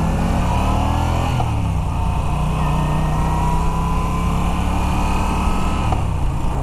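Moto Guzzi V9 Bobber's 850 cc transverse V-twin under way, revs rising until an upshift drops the pitch about a second and a half in. Then it climbs slowly again, with another shift near the end.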